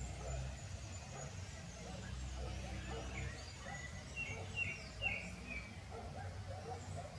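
Outdoor ambience: a bird chirping a quick run of short high notes about four to five seconds in, over a low steady rumble and scattered faint background sounds.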